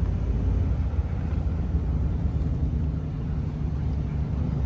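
Car moving at low speed, heard from inside the cabin: a steady low rumble of engine and tyres on the road.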